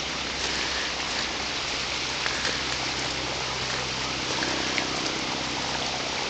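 Steady hiss of water with scattered light patters and drips.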